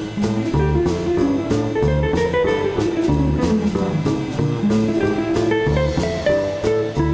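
Live jazz band playing, with guitar over a steady walking bass line and drum kit with cymbals; a melodic line runs downward about three seconds in.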